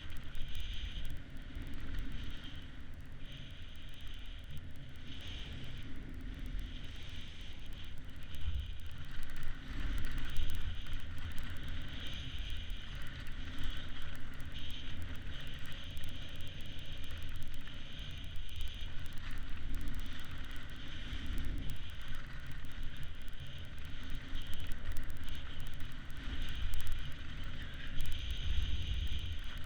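Wind buffeting the microphone of a kiter on the move: an uneven low rumble that swells and drops, over a steady high rushing hiss.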